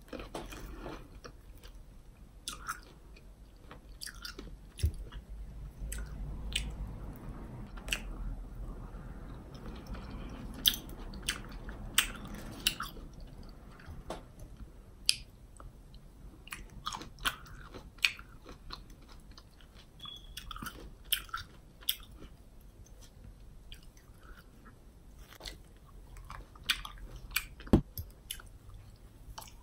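Close-miked chewing of maraschino cherries: soft wet chewing broken by many irregular sharp mouth clicks and smacks.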